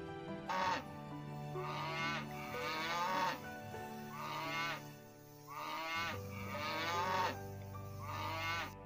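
Cattle mooing: about six short calls in a row, each under a second, over a soft steady music bed.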